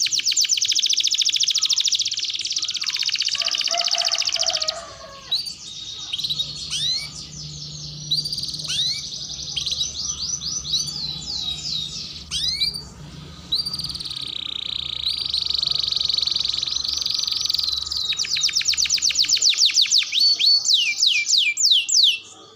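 Domestic canary singing: fast trills alternate with slower runs of sweeping whistled notes and a held steady tone, changing abruptly a few times.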